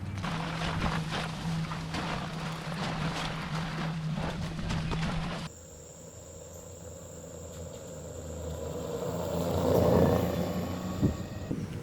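Electric ATV driving over rough ground: dense crunching and crackling from the tyres over a steady low motor hum. It cuts off suddenly about halfway, leaving a quieter outdoor scene with a thin high steady tone. A rushing sound then swells to its loudest near the end, and a sharp click follows.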